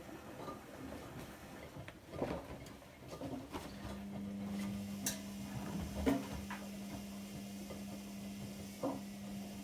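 AEG Öko-Lavamat 73749 washing machine working through a 95°C wash cycle. Scattered light knocks and clicks come first, then a steady low hum sets in about four seconds in and keeps going.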